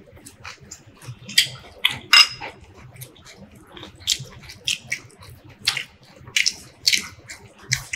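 Close-miked mouth sounds of eating by hand: chewing and lip smacking, an irregular run of short, wet clicks and smacks, a few every second.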